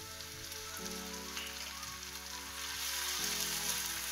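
Chopped onions and tomato sizzling in hot oil in a frying pan, the hiss growing louder about two-thirds of the way through. Soft background music with held chords underneath.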